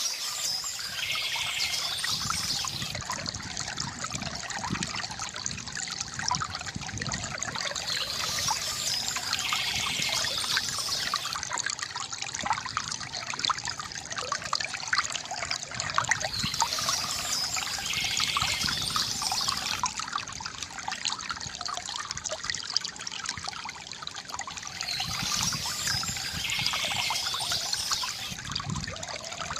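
Stream water trickling and babbling steadily over stones, with a brief higher sound recurring about every eight seconds.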